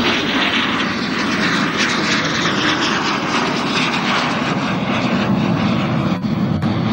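Jet engines of L-39 and L-29 jet trainers flying past, a loud, steady rushing noise that has built up just before and holds throughout.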